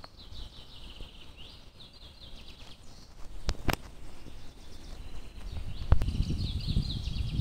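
Small birds singing in quick series of high chirps. A few sharp clicks come about halfway through, and a low rumbling noise builds near the end.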